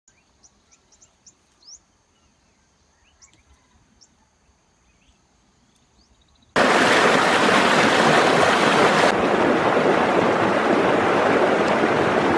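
Faint short high chirps over a thin, steady high tone, then a loud, steady rushing noise that starts abruptly about six and a half seconds in.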